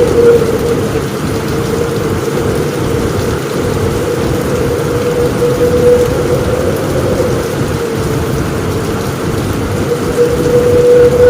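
Steady heavy rain falling on a roof, with a continuous low rumble of thunder beneath that swells slightly a few times.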